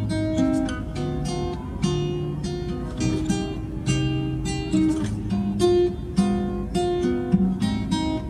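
Background music: plucked acoustic guitar or banjo playing a steady rhythm of short notes.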